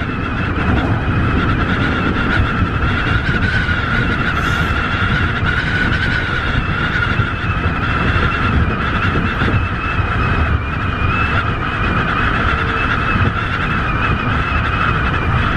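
Tobu 50090-series electric train running, heard from on board: a continuous low rumble with a steady high-pitched whine held over it that wavers only slightly.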